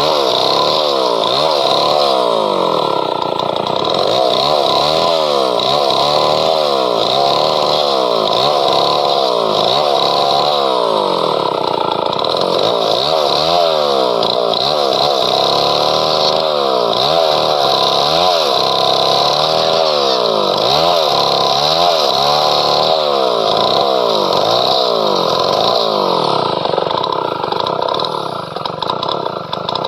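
Gasoline chainsaw cutting through padauk wood. The engine's pitch dips and recovers about once a second as it loads in the cut and eases off, over a steady chain hiss. It goes briefly quieter near the end.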